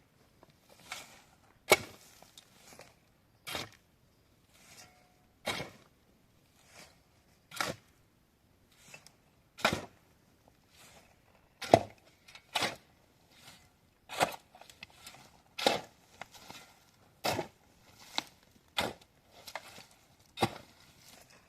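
Repeated chopping, a sharp knock every second or two at an uneven pace, with fainter knocks and handling noise between.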